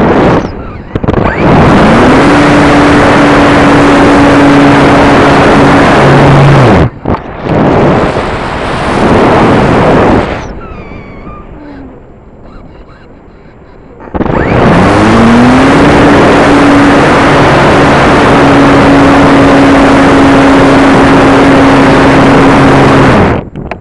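Electric motor and propeller of an RC combat plane, close to the microphone, with a heavy rush of air over it. Twice the motor winds up quickly to a steady tone at full throttle and then cuts off sharply: first for about five seconds, then, after a quieter gap, for about eight.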